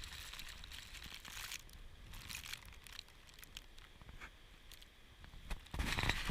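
Footsteps crunching and squeaking through deep snow, with clothing rustling, irregular and uneven; the crunching grows louder and denser near the end.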